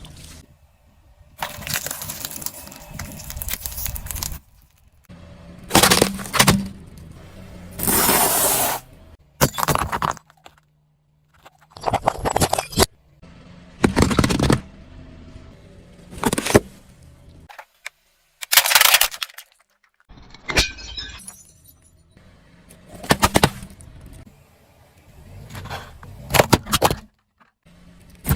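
A car tyre rolling over and crushing objects: a series of separate crunching, cracking bursts, about one every two seconds, with quiet gaps between.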